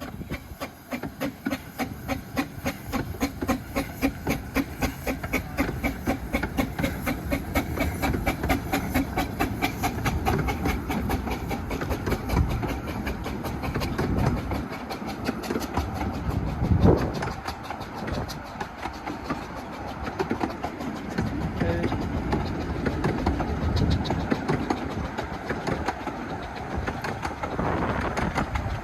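15-inch gauge steam locomotive working a train, its exhaust chuffing in a steady rhythm that builds up over the first few seconds, with the clatter of wheels on the rails.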